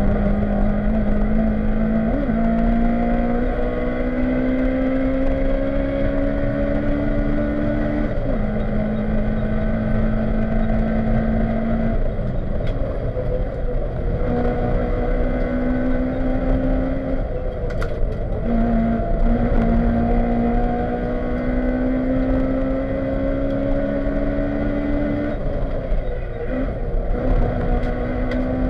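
Honda Civic rally car's engine heard from inside the cabin, driven hard: its pitch climbs steadily under acceleration, then drops suddenly several times, with road and tyre noise underneath.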